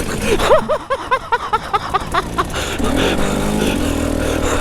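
Enduro dirt bike engine under way off-road, revving up and down in quick blips, then settling into a steadier pull a little past halfway.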